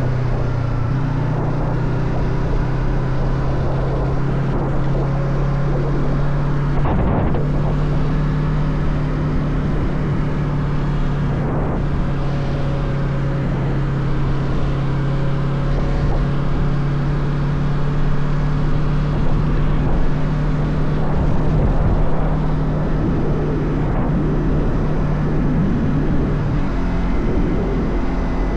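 Motorcycle engine running at a steady cruise, a constant hum under the rush of wind and road noise. The steady engine note drops away shortly before the end.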